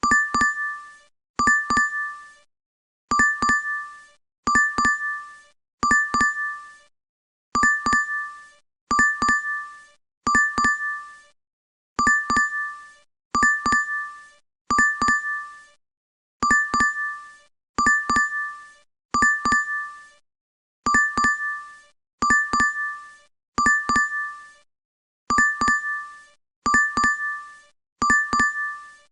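DoorDash app notification chime played over and over, about once every one and a half seconds. Each repeat is a quick double click followed by a bright two-tone ding that dies away within a second.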